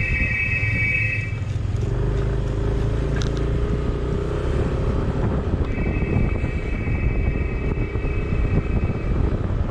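Motor vehicle running on the road: a steady engine and road rumble. A steady high-pitched tone sounds briefly at the start and again from about six to nine seconds in.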